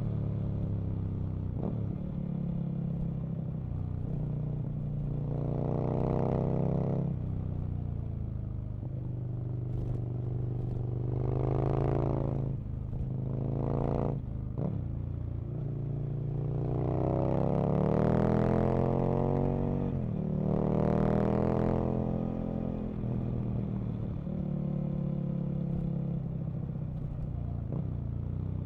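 Aprilia RSV Mille's 998 cc V-twin engine and exhaust under way, the pitch rising in about five strong acceleration surges and falling back off the throttle between them, with a few brief clicks.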